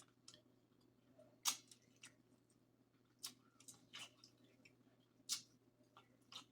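Close-miked eating of a seafood boil: scattered sharp, wet clicks and crunches of chewing and handling shellfish, with the loudest cracks about a second and a half in and again about five seconds in.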